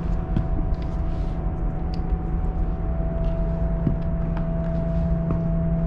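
A steady low droning hum with a thin steady tone above it, and scattered light knocks of footsteps climbing steps.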